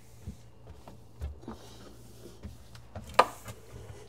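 Food containers being handled and set down on refrigerator shelves: a few small knocks and clicks, with one sharp clack about three seconds in.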